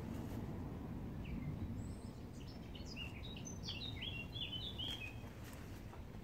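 A songbird singing a quick phrase of short high chirps, from about a second in until about five seconds in, over a steady low outdoor rumble.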